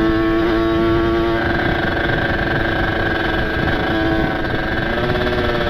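Single-cylinder two-stroke engine of a ported Kawasaki Ninja 150 RR with an aftermarket exhaust, running at a steady cruise while the bike is ridden. Its pitch steps up slightly about a second and a half in.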